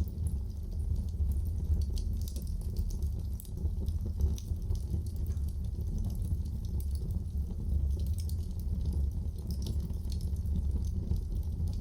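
Wood fire burning in a fireplace: a steady low rumble of flames with scattered small crackles and pops throughout.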